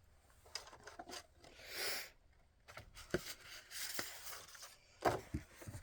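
Faint handling sounds of art materials on a table: a few scattered light clicks and knocks, with short papery swishes about two seconds in and again near the middle.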